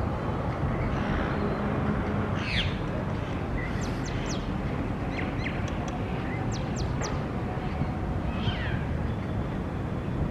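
Birds calling: a falling chirp about two and a half seconds in, a run of short, sharp high chirps between about four and seven seconds, and another falling call near eight and a half seconds. Under them runs a steady low rumble.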